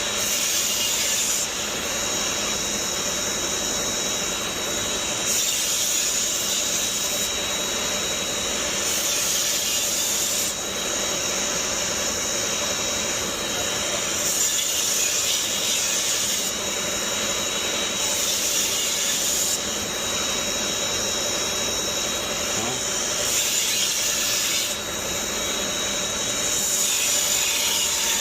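Powered knife sharpener running with a thin steady whine, as chef's knife blades are drawn across the abrasive in repeated passes, each pass a hiss lasting a second or few.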